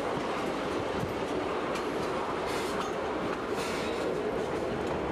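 Narrow-gauge passenger train rolling along the track: a steady rumble and clatter of coach wheels on the rails, with brief hissy swells near the middle.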